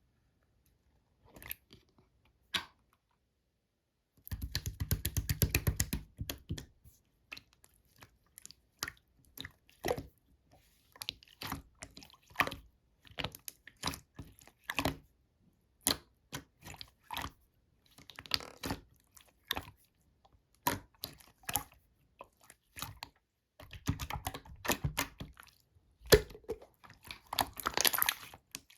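Slime being squeezed and poked by hand, giving sharp sticky clicks and small pops, with a fast run of crackles about four seconds in and denser crackling near the end.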